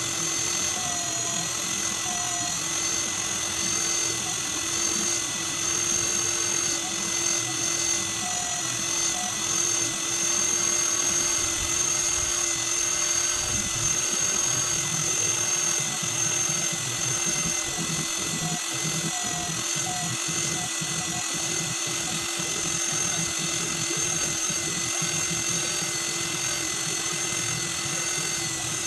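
A motor running steadily with a high-pitched whine, never stopping or changing speed.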